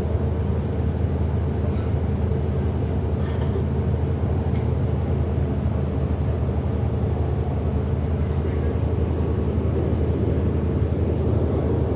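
Steady low drone inside a 2008 Orion VII NG hybrid diesel-electric city bus under way: drivetrain hum and road noise.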